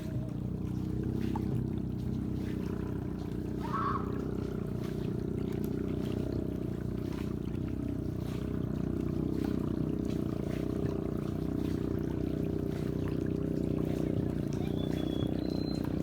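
Boat engine running steadily in a low drone, with water rushing and splashing along the hull.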